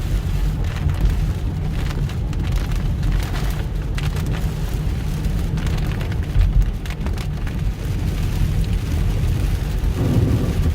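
Heavy rain pounding on a car during a thunderstorm, heard inside the cabin over a steady low rumble of road and engine noise, with scattered sharp taps of drops.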